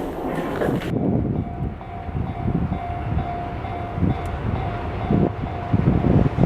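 Train running on the track: uneven low rumbling with a steady whine that holds for a few seconds in the middle.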